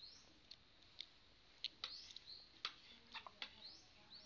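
Faint high bird chirps, short notes rising in pitch a few times, among scattered sharp clicks and ticks.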